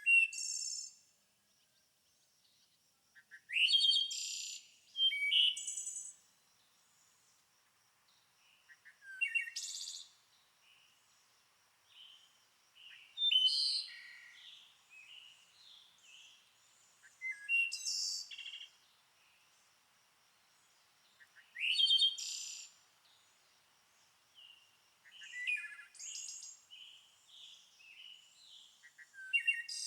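Birds singing: a loud, high, quick song phrase repeats about every four seconds, with softer chirps in between.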